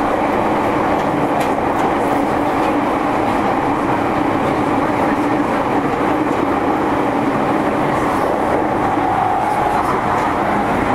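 JR East E231-series electric train running steadily on the Tokyo Metro Tozai Line, heard from inside the passenger car: an even rumble of wheels on rail.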